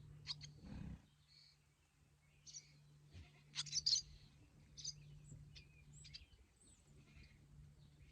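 Barn swallows, fledglings and their parents, calling to each other in short high chirps and twitters, with the loudest burst of chirping about halfway through.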